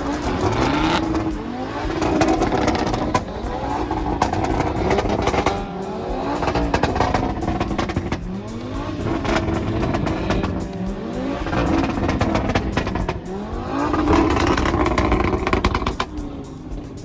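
Performance car engine accelerating hard, its pitch rising and dropping back with each upshift, several times over as it pulls through the gears.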